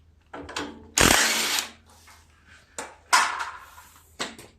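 A wrench or driver working a 1/2-inch bolt loose on a Wheel Horse tractor: several short bursts of mechanical tool noise, the loudest about a second in, and a sharp click near the end.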